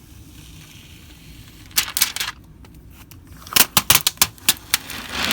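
Protective plastic film being peeled off a 3D printer's print bed, crackling: a brief patch of crackles about two seconds in, then a quick run of sharp crackles from about three and a half seconds on.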